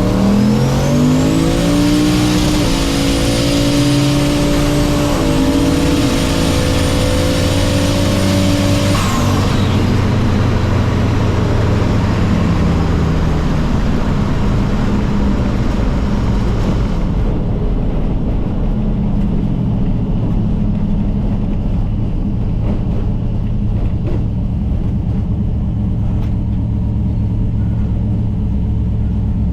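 Turbocharged LS V8 at full throttle on a drag run. The engine pitch climbs over about two seconds with a high whine rising alongside it, and drops back a little at a gear shift about five seconds in. Both cut off around nine seconds in as the throttle lifts, leaving a steady low engine rumble.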